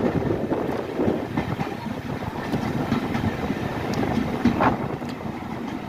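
A railway train running, a steady rumble with scattered clicks from the wheels and a short squeak about four and a half seconds in.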